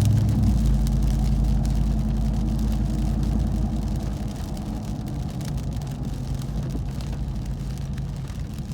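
Ram 1500 TRX's supercharged 6.2-litre V8 heard from inside the cab, running steadily at low revs with a deep hum that slowly gets quieter, over tyre and road noise on a wet road.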